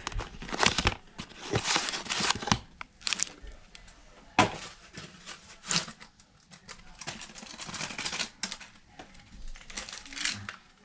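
Crinkling and rustling of packaging being handled in irregular bursts, with a few sharp clicks, the loudest about four and a half seconds in.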